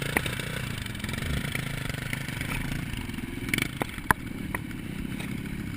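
Dirt bike engine running steadily at low speed, with a few sharp clicks about three and a half to four seconds in.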